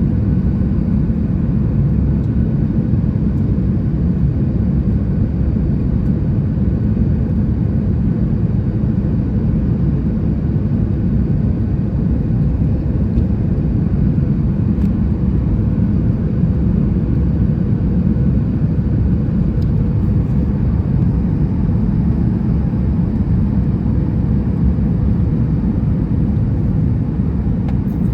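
Cabin noise inside a Boeing 737 MAX 8 airliner in flight: a steady, deep rumble of engines and airflow with a faint steady hum.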